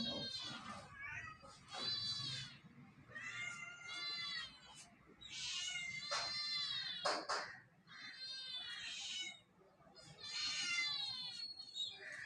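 Kittens meowing over and over, high-pitched calls about a second long every second or two. A brief sharp sound cuts in about seven seconds in.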